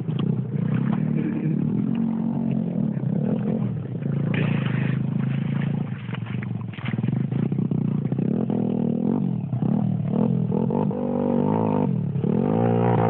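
Motorcycle engine running and revving, its pitch rising and falling several times in the second half.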